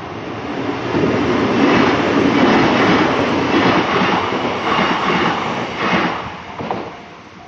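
A Kintetsu electric train passes over the level crossing, its wheels rushing and clattering over the rail joints. It builds for about a second, stays loud, and fades away near the end, with the crossing's warning bell ringing as it goes.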